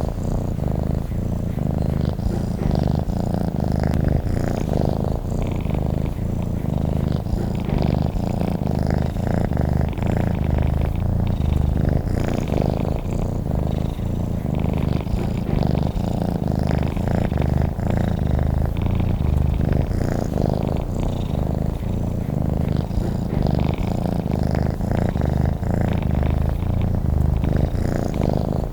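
Domestic cat purring steadily, a continuous low, fast-pulsing rumble.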